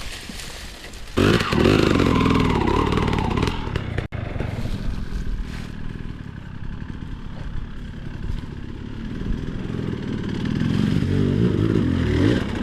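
Dirt bike engine revving hard about a second in, then running at lower revs, with the revs climbing again near the end.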